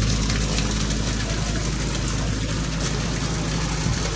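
An engine idling steadily, a low even hum that fades away near the end, over a steady background hiss.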